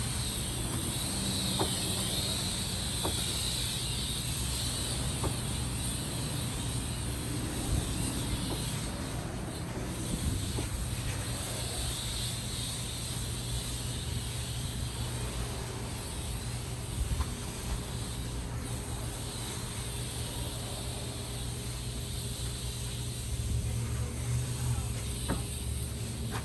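1996 Ford F-250's 7.3 Powerstroke turbo-diesel V8 idling steadily.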